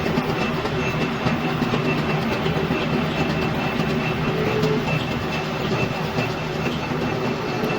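Metal lathe running steadily while machining a hydraulic piston: a constant mechanical hum with a faint, on-and-off high whine.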